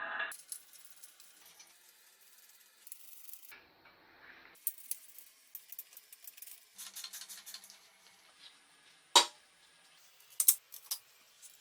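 Small metal items being handled, with scattered clinks and rattles, two short spells of scraping and one sharp loud clink about nine seconds in.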